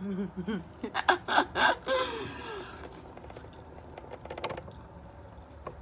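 Biting into a corn on the cob and chewing close to the microphone: a few sharp crunches about a second in, then quieter chewing with faint clicks.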